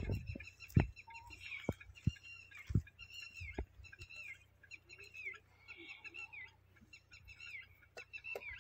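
Small birds chirping over and over, short falling calls a few times a second. Several soft knocks and rustles from hands working the palm strands and fronds are the loudest sounds.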